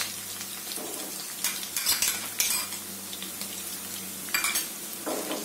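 Chopped onions and green chillies sizzling steadily in hot oil in a kadhai, with a few short knocks of a utensil against the pan as ginger-garlic paste is added.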